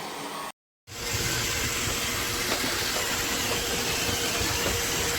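iRobot Roomba 692 robot vacuum running: a steady whir with a constant hum and an uneven low rumble. A brief cut to silence comes just after the start.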